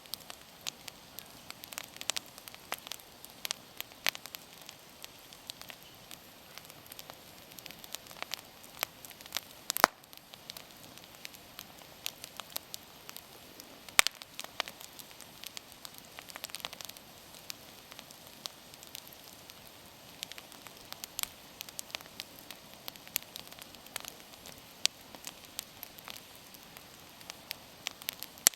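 Wood bonfire burning with irregular crackles and pops over a faint hiss, a few pops sharper than the rest.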